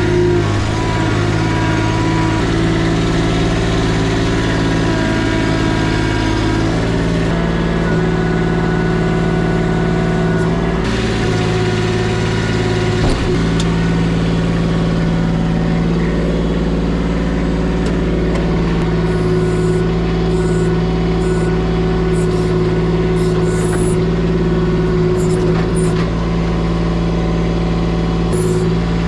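Kubota diesel engine running steadily close by, its note shifting a few times as the load changes.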